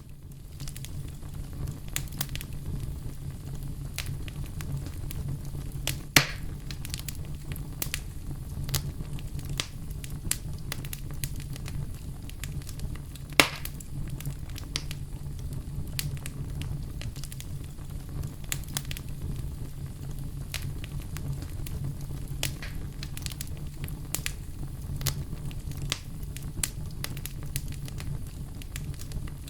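Wood campfire burning and crackling, with a steady low rumble under many scattered sharp pops; two louder pops stand out about six and thirteen seconds in.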